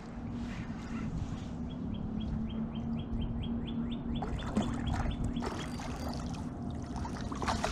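A bird calling a quick run of short, repeated high notes, about four or five a second, for a few seconds, over a steady low hum and rumble.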